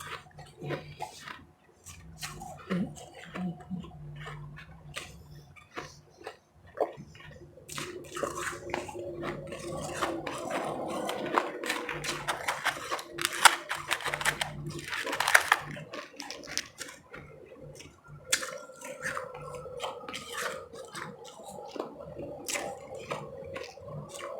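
Close-miked chewing and crunching of powdery ice chips: irregular crisp crunches, busiest around the middle.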